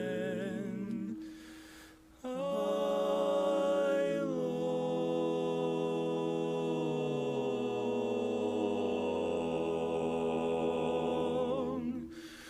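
Barbershop quartet singing a cappella in close harmony: a held chord that releases about a second in, a brief pause, then a long sustained chord while the lowest voice slides slowly downward, fading out near the end.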